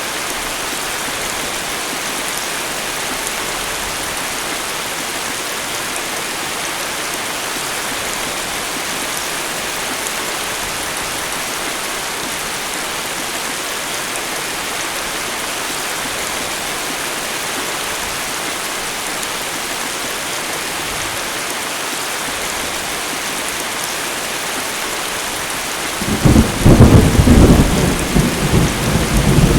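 Steady rain of a tropical thunderstorm falling. Near the end a loud, low rumble of thunder breaks in and rolls on.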